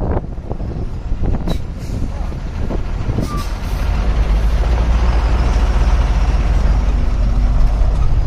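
Truck driving on the highway: steady engine and road noise with a deep hum, growing louder and steadier about four seconds in, with a few sharp knocks and rattles in the first two seconds.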